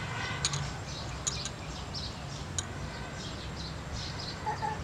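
Birds chirping again and again, with a few sharp clicks in the first few seconds and a short pitched call near the end.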